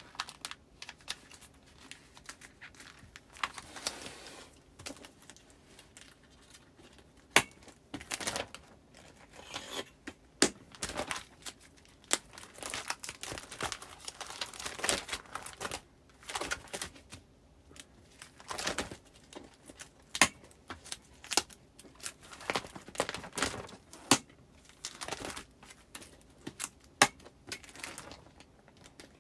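Postcards and crinkly plastic sleeves being handled and slid into a file, with rustling, crinkling and many sharp clicks.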